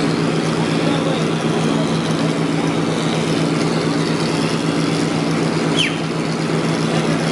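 A construction machine's engine running steadily, with one short high squeak that falls in pitch about six seconds in.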